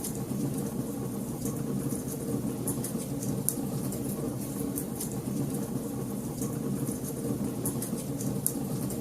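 Wood fire burning in a fireplace: a steady low rumble of flames with irregular sharp crackles and pops, about one a second.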